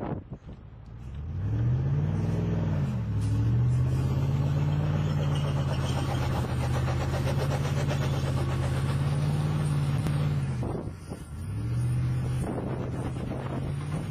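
A motor vehicle's engine revs up and eases off about two seconds in, then runs at a steady pitch. It cuts away briefly near the end and revs up again.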